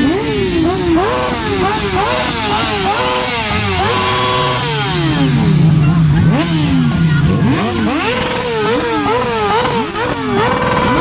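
Several motorcycles revving together in quick, repeated blips, their engine pitch swinging up and down over one another. Midway one engine is held at a steady speed for a couple of seconds before dropping back.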